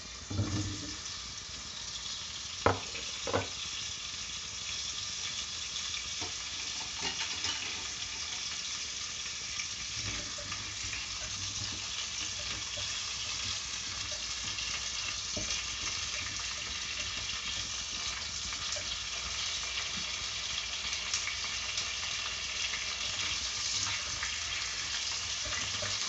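Sweet potato chunks frying in hot oil in a pot: a steady crackling sizzle that slowly grows louder, stirred with a spatula. Two sharp knocks stand out about three seconds in.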